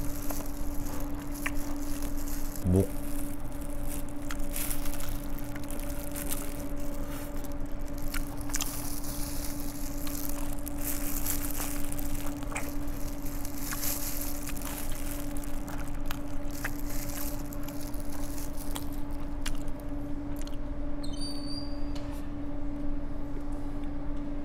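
Close-miked eating: chewing and biting into Korean seasoned fried chicken, with small clicks and crinkles from a plastic glove, over a steady electrical hum.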